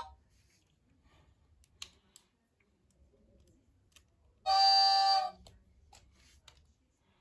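Electronic horn sound of a Märklin my world toy train: one short, steady toot, the loudest thing here, about four and a half seconds in. A few faint clicks come before and after it.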